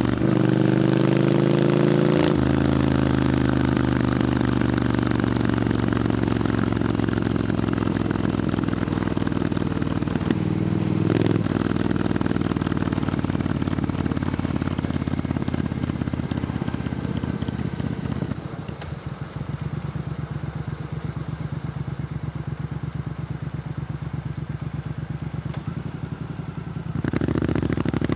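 Triumph Scrambler 900's parallel-twin engine running through an aftermarket Arrow exhaust while riding. The revs climb over the first couple of seconds and hold steady. About eighteen seconds in, the engine drops to a quieter, evenly pulsing low beat, then picks up again near the end.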